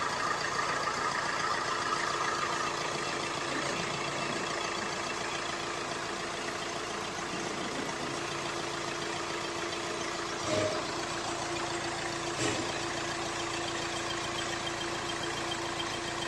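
Vehicle engine idling steadily with a constant hum, with two short knocks about ten and twelve seconds in.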